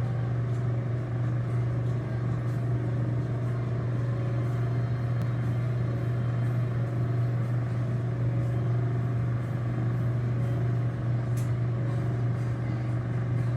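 A steady low-pitched hum or drone, unchanging throughout, with a few faint ticks over it.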